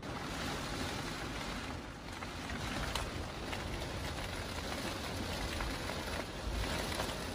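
Steady rain falling on a car's roof and rear window, heard from inside the cabin, with single drops ticking now and then.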